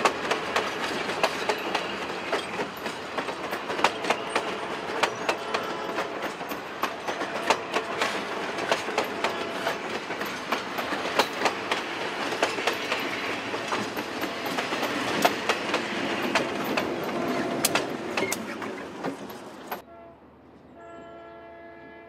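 Passenger cars rolling past close by, their wheels clicking rapidly and unevenly over the rail joints. About twenty seconds in, the sound cuts to a quieter scene, where an approaching diesel locomotive sounds its horn.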